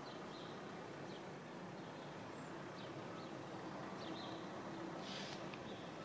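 Faint, scattered bird chirps over a steady low background hum, with a brief hiss a little after five seconds.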